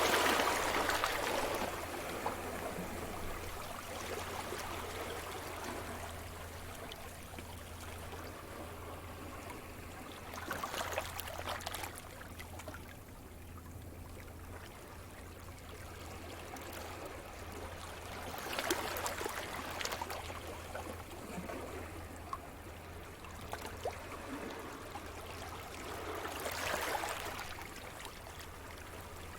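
Sea surf on a shore: waves break and wash in roughly every eight seconds, each one a swell of fizzing, crackling wash that fades back to a softer hiss between waves.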